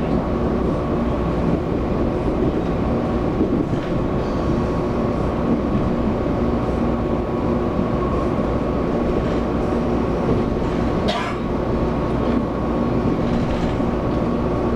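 Taiwan Railway EMU700 electric multiple unit running, heard from inside the passenger car: a steady rumble of wheels on rail with a constant hum of motor tones. There is one sharp click about 11 seconds in.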